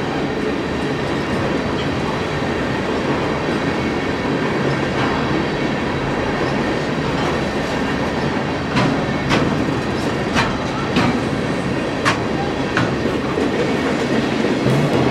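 A train running along the rails with a steady rumble, and several sharp clicks in the second half.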